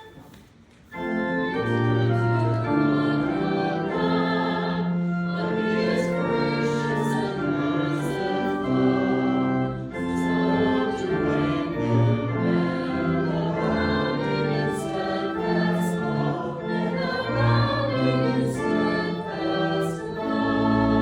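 Church organ playing, with voices singing along, as the sung acclamation before the Gospel reading; it begins about a second in after a short lull.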